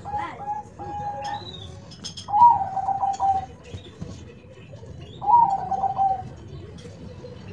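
A dove cooing three times, about every two to three seconds. Each phrase starts on a slightly higher note and settles onto a held lower one.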